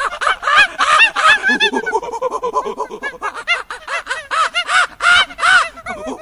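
Rapid, loud series of short animal calls, several a second, each rising and falling in pitch, ending abruptly.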